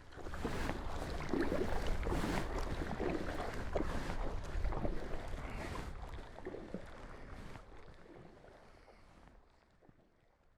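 Wind buffeting the microphone and water splashing and lapping around a sea kayak, with a low rumble and small scattered splashes, fading away over the last few seconds.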